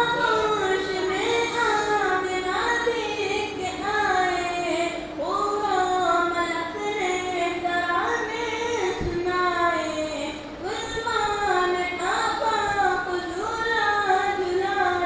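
A young voice reciting a naat, an Urdu devotional song in praise of the Prophet, solo, in long ornamented phrases, with a faint steady hum underneath.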